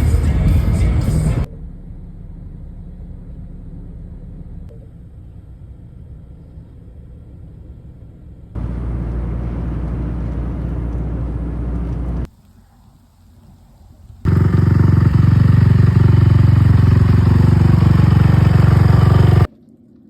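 Off-road vehicle engine and driving noise in several short clips cut together, each starting and stopping abruptly. The loudest clip comes near the end.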